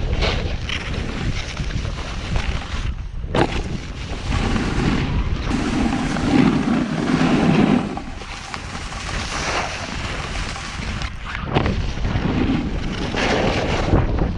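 Wind rushing and buffeting over the microphone while snowboarding down a slope, mixed with the hiss of the board sliding and scraping over snow. It swells and eases unevenly, heaviest about six to seven seconds in.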